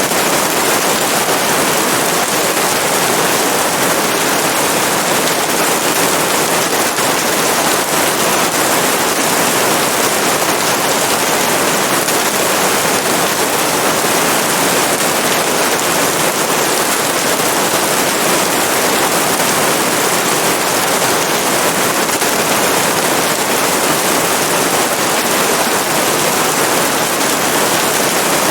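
Steady, dense rain falling, an even hiss with no breaks.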